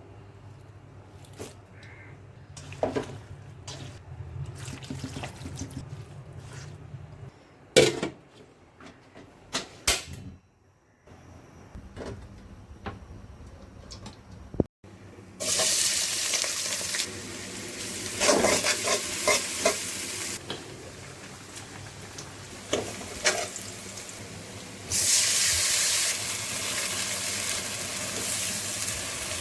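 Kitchen cooking sounds: scattered knocks of utensils for the first half, then a loud steady hiss that starts suddenly about halfway, with more knocks over it, and starts suddenly again near the end.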